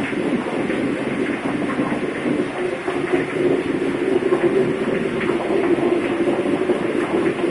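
Steady, loud din of a ship's engine room: large diesel engines and machinery running, with a constant rumbling drone and faint clatter.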